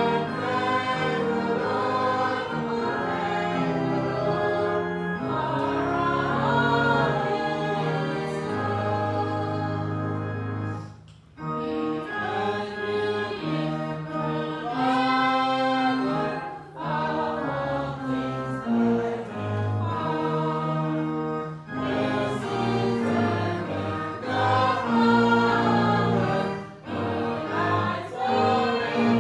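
Church congregation singing a hymn together, phrase after phrase, with brief breaks between lines about eleven and seventeen seconds in.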